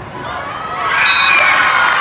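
Spectators and players cheering and shouting together, the cheer swelling about a second in.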